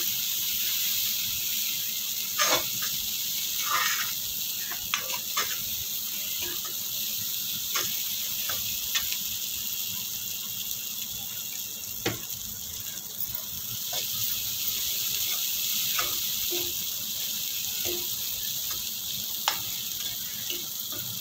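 Masala paste sizzling in oil in a metal kadhai, a steady hiss, while a metal spoon stirs it, scraping and clicking against the pan every second or two. The paste is being fried until the oil separates from it.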